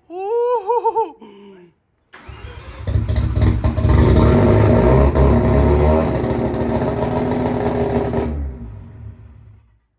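Turbocharged Mazda 13B rotary engine running loud with a rapid choppy pulse, then fading away near the end. A short wavering voice-like sound comes before it, in the first second or so.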